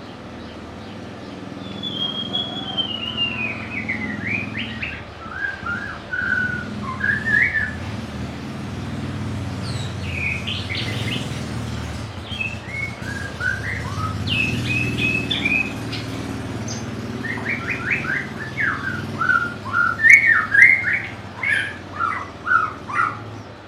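White-rumped shama singing: three phrases of clear, varied whistled notes, the first opening with a long falling whistle and the last the loudest, over a low steady rumble.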